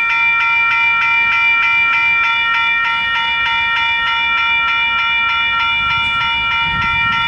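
Western Cullen Hayes electronic level-crossing bells ringing with a rapid, even ding at about four strokes a second: the crossing is activated for an approaching train. A low rumble builds near the end.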